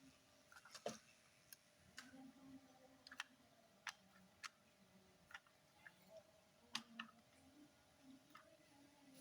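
Faint, scattered clicks and taps of small toy model cars being handled, about a dozen sharp ticks at irregular intervals.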